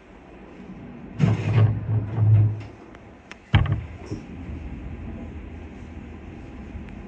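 Train passenger doors closing: a rushing sound for about a second and a half, then a sharp thud about three and a half seconds in as the doors shut.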